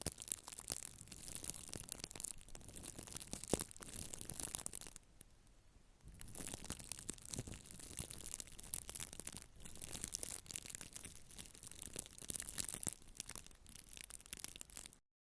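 Close-miked scratching and brushing: a dense run of fine, crackly strokes that dips briefly about five seconds in and cuts off just before the end.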